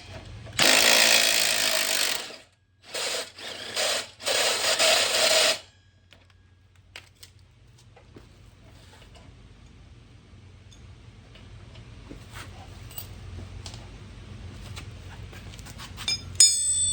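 Handheld power tool run in four short bursts, the first the longest, while backing bolts out of a mini bike. Then faint handling clicks, and a few ringing metal clinks near the end as parts are set down.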